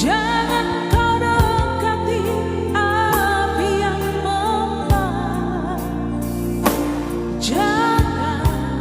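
A singer's voice holding long notes with vibrato over an instrumental backing, with steady bass notes and a few sharp percussive hits.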